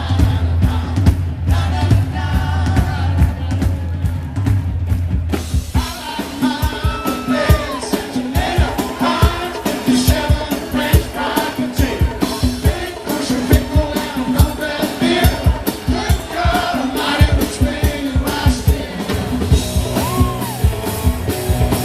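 Live band music with a lead singer and voices singing along. A held low bass note carries the first six seconds or so, then the drums come in with a steady beat.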